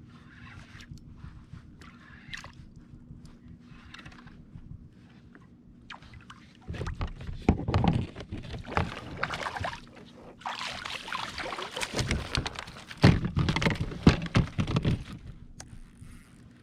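Water sloshing and splashing at a fishing kayak, with irregular knocks and rustling of handling on the boat. It starts faintly, then grows loud about seven seconds in and runs in two busy stretches with a short lull between them.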